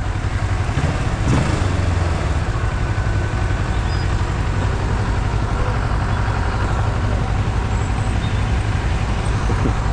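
Engine running steadily through an aftermarket exhaust muffler, a deep, even low-pitched exhaust rumble with no revving.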